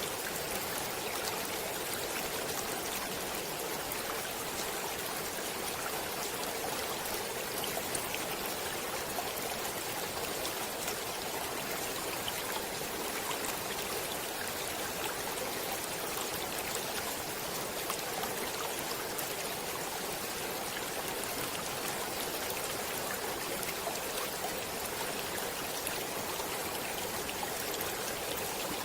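A stream flowing steadily: an even rush of running water with fine splashing detail and no change throughout.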